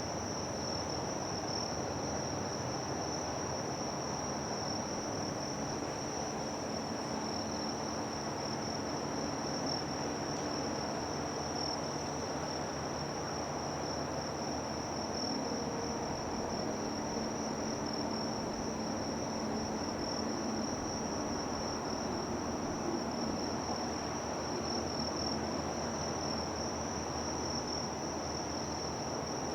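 Insect chorus: a steady, high-pitched trill that runs on without a break, over a low, even hum of background noise.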